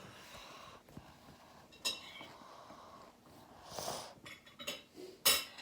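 A few short, sharp clicks and clinks from things being handled, the loudest near the end and another about two seconds in, with a brief rustle in between.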